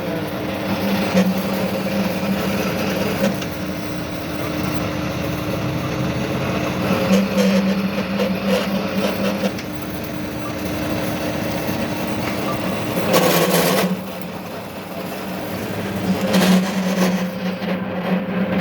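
An electric workshop machine running steadily with a low hum, joined by a short loud rasping burst about two-thirds of the way in and a smaller one a few seconds later, as of metal being cut or ground.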